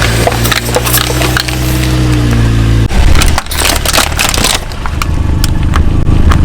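Car tyre rolling over and crushing brittle objects: repeated sharp cracking and splintering crunches over the car's engine running low and steady. The engine hum changes abruptly about halfway through.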